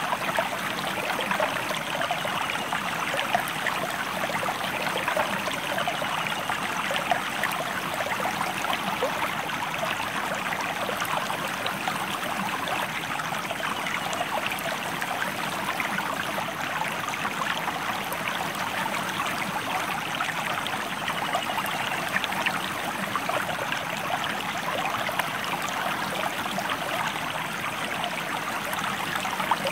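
River water flowing steadily, a continuous babbling rush flecked with many small splashes.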